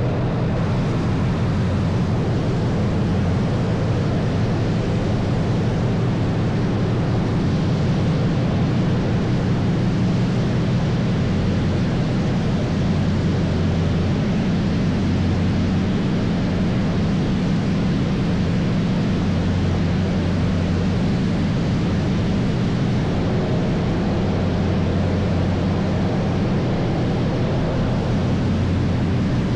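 Car wash running: a steady low rumble under an even rushing noise.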